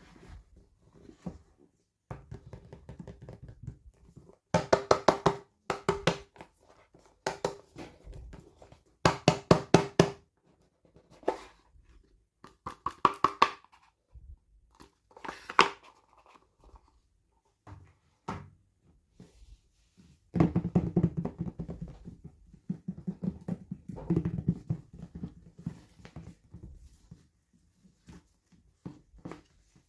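Hands opening and handling plastic toy packaging: several short bursts of rapid clicking and crinkling, with a few knocks, separated by quiet pauses.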